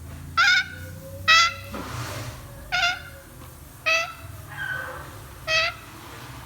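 African grey parrot giving five short, high-pitched calls spread over several seconds, with a fainter one between the last two.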